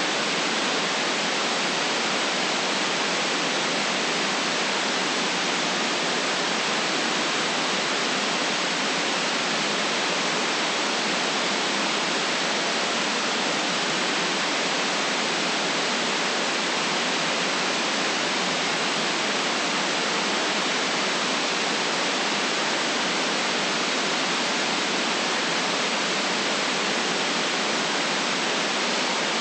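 Steady white noise: an even, unchanging hiss with no deep rumble and no events in it.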